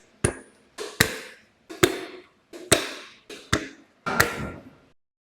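A series of about six sharp knocks, roughly one every 0.8 seconds, each ringing briefly. The last is longer, and the sound stops abruptly about five seconds in.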